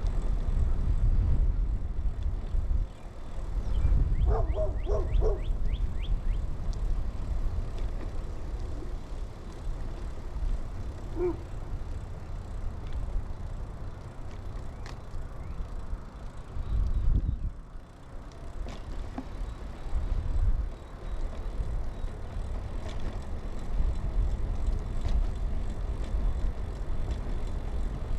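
Low wind rumble on a chest-mounted action camera, with tyre and road noise from a 2000 Kona Blast mountain bike being ridden, surging and easing throughout. A few brief high chirps come about four to five seconds in.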